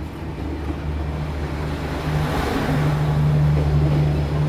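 Diesel train passing at close range, with a steady low engine rumble. A rushing noise of wheels and rail swells and grows louder about halfway through.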